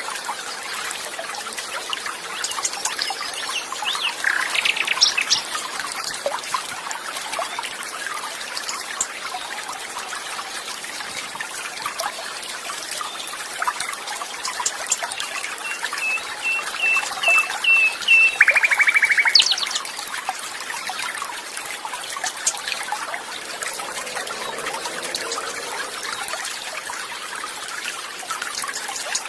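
Water trickling and flowing steadily, with wild birds calling over it: a fast trill a few seconds in, and about halfway through a run of short, evenly spaced notes that ends in another fast trill.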